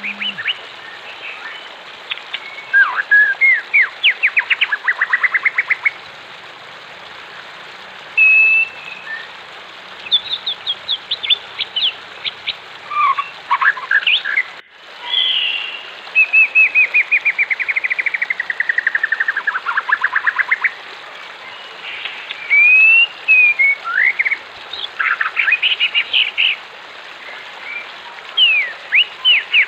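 Wild songbirds singing in rapid trills and whistled phrases, one with a long trill that falls steadily in pitch, over a steady rush of running water. Both sounds cut out briefly about halfway.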